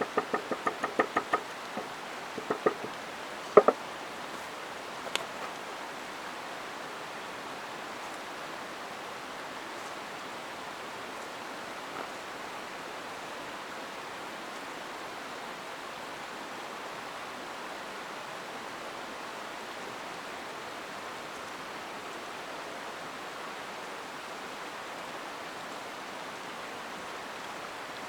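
A quick run of sharp knocks, then a few louder single knocks about three to five seconds in, over the steady rush of a flowing mountain stream, which carries on alone after the knocks stop.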